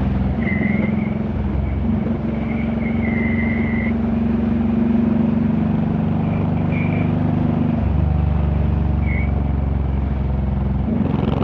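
Honda VTX1800's big V-twin engine running while riding, its note shifting a couple of seconds in, again about two-thirds of the way through, and near the end.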